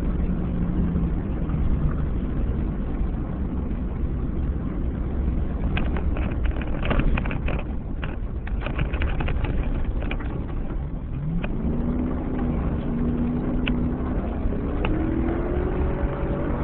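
2007 Chevy Avalanche's V8 driving fast on a dirt and gravel road, with a low steady rumble of engine and tyres. Gravel clicks and pings against the truck for several seconds in the middle, then the engine revs up in steps over the last few seconds and drops off at the end.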